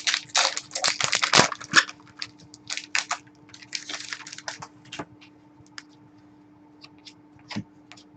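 Hockey trading cards being handled and flipped through. A quick run of clicks and rustles comes in the first two seconds, then scattered single clicks over a faint steady hum.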